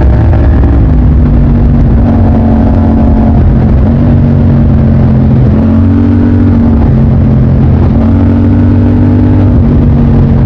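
Motorcycle engine running under way, its pitch stepping up and down a little every second or two as the revs change.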